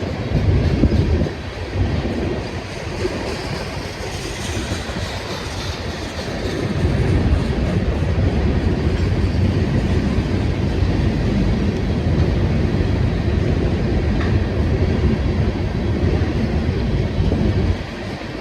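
Freight train cars rolling past on the rails with a heavy, steady rumble. It eases off from a second or so in, swells again from about seven seconds in, and drops off sharply just before the end.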